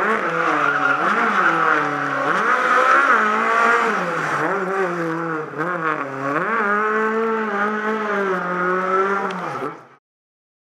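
Rally-prepared classic Lada saloon's four-cylinder engine revving hard as the car drifts, its pitch swinging up and down again and again. The sound cuts off suddenly about ten seconds in.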